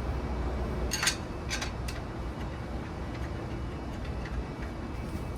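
A few light metallic clicks and taps as the wheel balancer's spindle and fittings are handled and slid into place, most of them about a second in, over a steady low hum.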